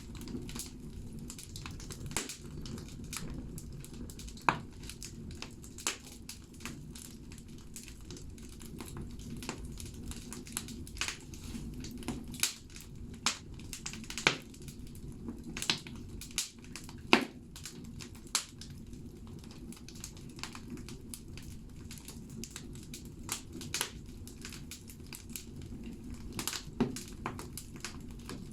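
Firewood burning in a bathhouse stove: irregular sharp crackles and pops over a steady low rumble of the fire.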